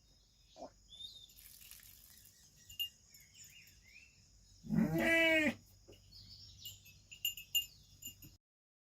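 A sheep bleats once, a loud call under a second long about five seconds in, with faint bird chirps around it.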